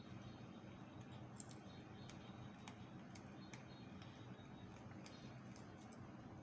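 Faint, irregular clicks of a cat chewing fried chicken, over a steady low hum.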